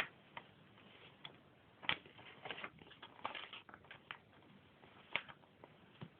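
Sheet of paper being folded in half and creased by hand: faint, scattered crinkles and taps.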